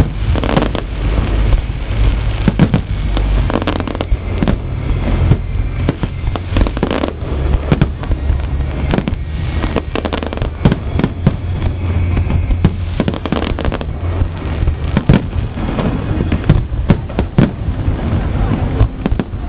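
Aerial fireworks display: a continuous barrage of bangs and crackling bursts, several a second, over a steady low rumble of shells going off.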